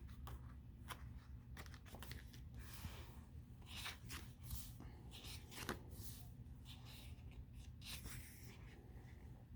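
Faint rustling and crinkling of sticker-book pages being handled and turned, with scattered soft taps and clicks.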